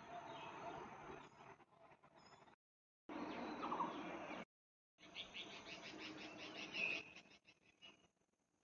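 Faint outdoor ambience with birds chirping: short chirps and a quick trill over a low background. It cuts out abruptly twice and picks up again.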